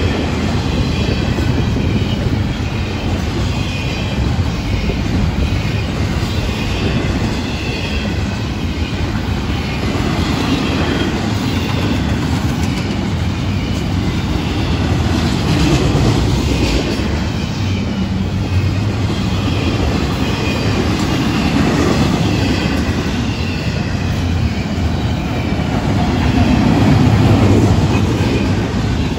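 Double-stack intermodal freight cars rolling past at close range: a steady rumble and clatter of steel wheels on the rails, with a thin, high wheel squeal running through it.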